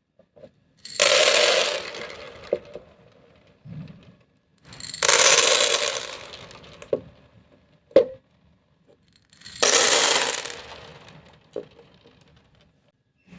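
Handfuls of small hard beads pouring and clattering onto a hard surface in three cascades, each starting sharply and fading out over a second or two, with a few single bead clicks between them.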